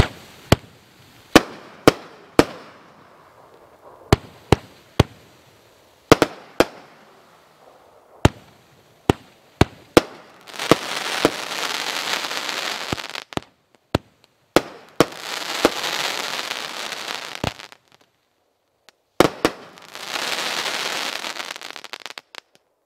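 'Yikes' multi-shot fireworks cake firing: a string of sharp separate shot reports for about the first ten seconds, then three long stretches of dense crackling, each lasting two to three seconds.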